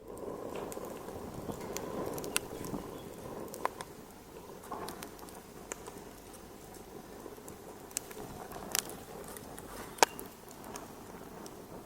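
Wood fire in a fireplace crackling, with irregular sharp pops and snaps over a steady low rush of burning. The loudest pop comes about ten seconds in.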